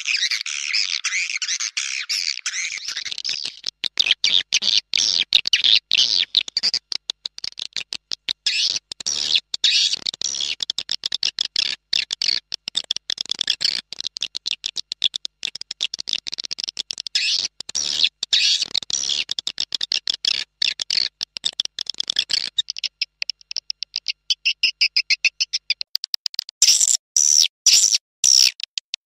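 Swiftlet calls of the kind played as a lure for swiftlet nesting houses: a dense, fast chirping twitter with rapid clicks. It thins out about three-quarters of the way through, and loud clusters of calls come near the end.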